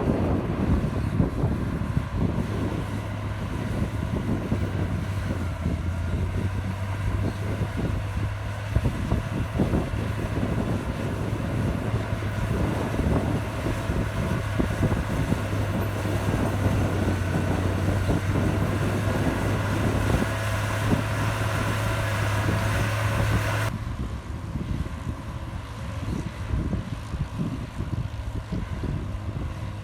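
Komatsu bulldozer's diesel engine running under work, a steady low hum with heavy clatter. About 24 seconds in the brighter, higher part of the sound stops suddenly, leaving the low engine hum.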